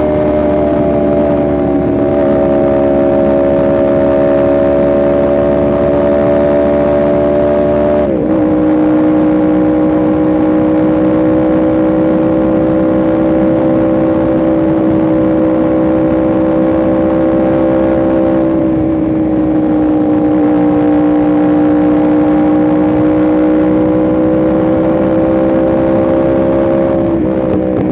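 Yamaha R1M's crossplane inline-four engine running at a steady cruise, with a quick upshift about eight seconds in. The engine note falls away near the end as the bike slows.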